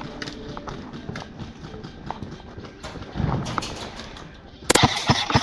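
Footsteps and scattered knocks of a player moving through an airsoft close-quarters site, with a few low thumps about three seconds in. Near the end, a loud, rapid string of sharp cracks lasting about half a second.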